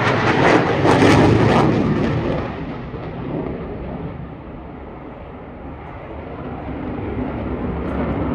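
Eurofighter Typhoon's twin jet engines, loud for the first two seconds or so, then fading to a low rumble and building again near the end.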